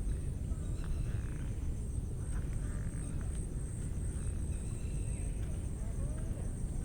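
Forest ambience: a steady high-pitched insect drone with a faster pulsing insect trill beneath it, short scattered bird calls, and a constant low rumble.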